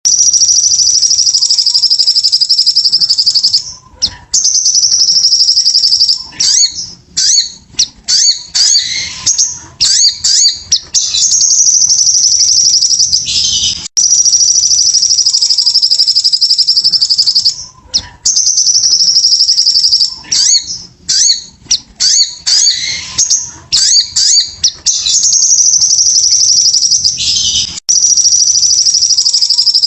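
Sogon (sogok ontong) bird singing loudly: long, rapid, high-pitched trills of three to four seconds, each followed by a run of short sharp chirps. The same song sequence repeats about every 14 seconds, as a looped lure recording does.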